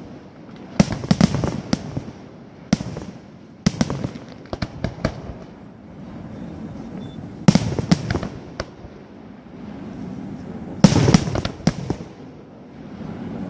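Fireworks display: aerial shells bursting in sharp bangs, some followed by clusters of crackling reports. The groups of bursts come every few seconds, with the loudest group near the end and a low rumble of echoes between them.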